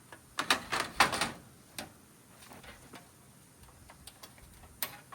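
Metal scrap parts from a washer and dryer knocking and clanking as they are handled and pulled apart. A quick flurry of sharp knocks comes about half a second to a second and a half in, followed by a few single clicks.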